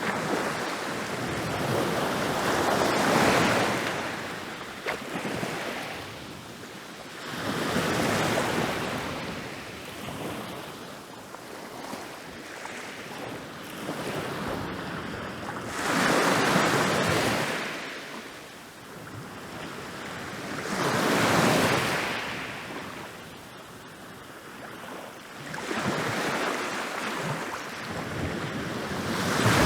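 Ocean waves rolling in and breaking on a beach, each one swelling to a crash and washing out, about every four to five seconds.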